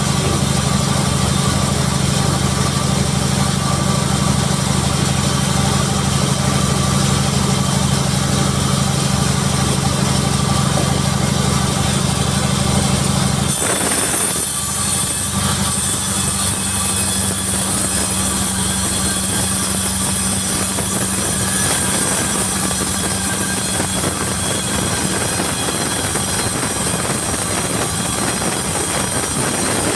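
Sawmill machinery running steadily with an engine drone. About halfway through the sound changes abruptly: the drone's note shifts and a bright hiss comes in.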